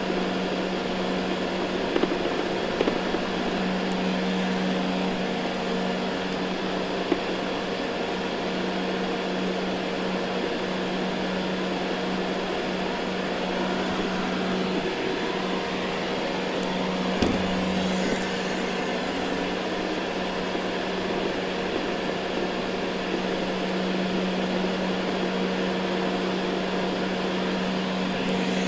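Ecovacs Deebot N79 robot vacuum running on carpet: a steady motor hum with a low tone under a whirring rush, with a few light knocks, the clearest about 17 seconds in.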